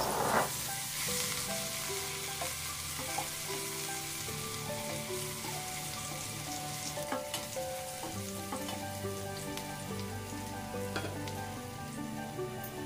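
Ginger garlic paste sizzling steadily in hot oil in a stainless steel pot, stirred with a wooden spoon, with a brief louder burst of sizzling right at the start.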